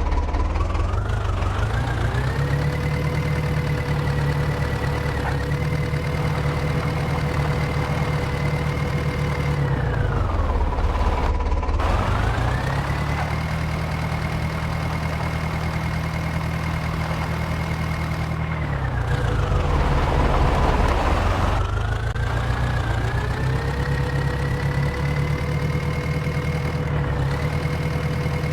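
Diesel engine of a JCB 3DX backhoe loader revving up under hydraulic load while digging and loading mud. It holds a high steady speed for several seconds, falls back toward idle, then climbs again, three times.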